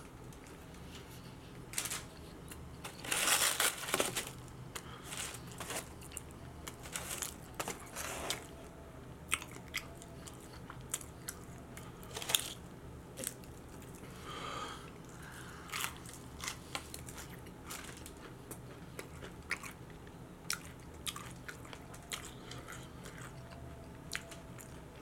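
Close-miked eating of a cheeseburger and fried onion rings: biting and chewing with wet smacks and irregular sharp crunches, a cluster of louder crunches about three to four seconds in.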